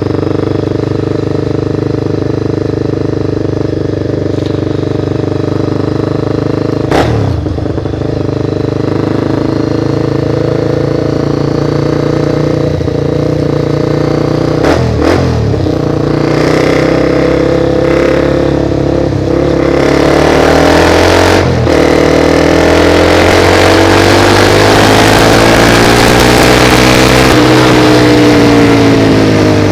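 Motorcycle engine running steadily at low revs, then from about two-thirds of the way in revving up, its pitch rising, while a hiss builds up and the sound gets louder. A few sharp clicks are heard along the way.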